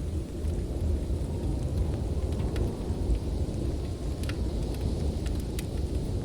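Heavy storm wind making a steady low rumble, with the irregular sharp crackles and pops of a wood fire burning.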